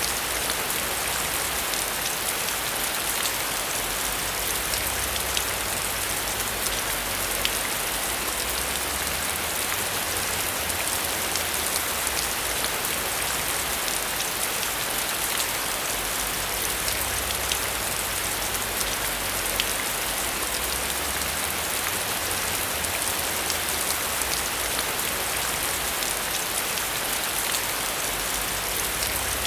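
Steady heavy rain: a dense, even hiss of falling rain flecked with countless small drop ticks, unchanging throughout.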